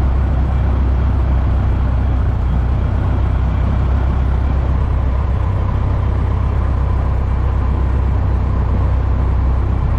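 Cessna 120's four-cylinder Continental aircraft engine and propeller running steadily during a ground run-up, a loud, even low drone.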